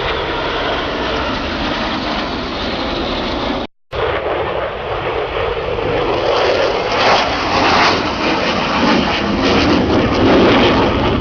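Aircraft flying over, a loud, even engine noise that grows louder in the second half. About four seconds in, the sound drops out completely for a moment at an edit.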